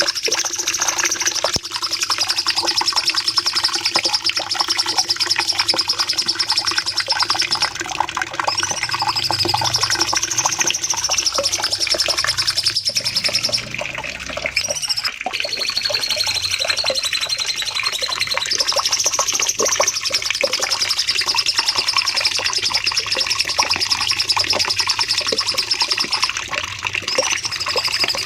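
Cucak cungkok songbird singing a long, very fast, high-pitched trill (the 'nembak panjang' long burst song), almost unbroken except for a brief pause about halfway.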